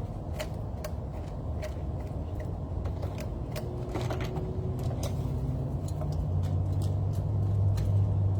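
A low engine rumble, like a passing vehicle, growing louder toward the end, with scattered sharp clicks and taps over it.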